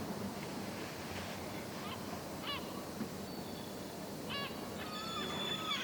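Gulls calling: a few short calls, then a run of higher, repeated calls from about four seconds in that grows louder near the end, over a steady background hum.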